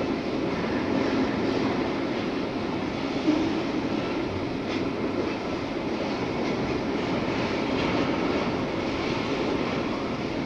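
Freight cars of a manifest train rolling past steadily, a continuous rumble and rattle of wheels on rail.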